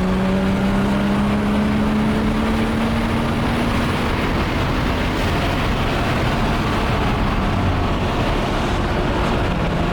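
Toyota Supra Twin Turbo R heard from inside the cabin on a test drive: steady road and drivetrain noise, with a pitched drone that rises slowly over the first few seconds as the car gathers speed, then steadies. The owner says the differential's pinion bearing is still making some noise on this drive.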